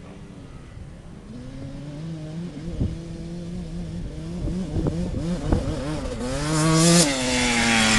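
Motocross bike engines revving up and down through gear changes, growing louder and loudest about seven seconds in, where the pitch drops as a bike comes close.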